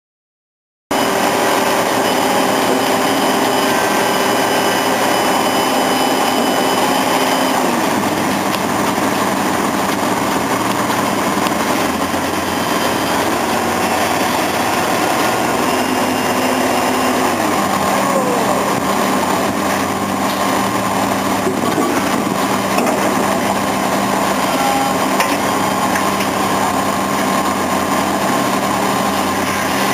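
Machinery engine running steadily on a concrete pile-driving rig, cutting in about a second in; its pitch shifts a couple of times as the load changes.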